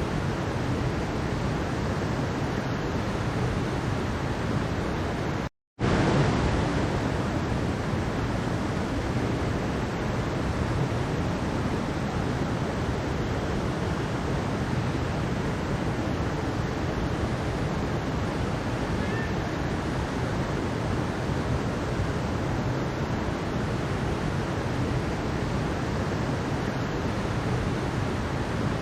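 Mountain stream water rushing steadily over rocks. It drops out completely for a split second about five and a half seconds in, then carries on unchanged.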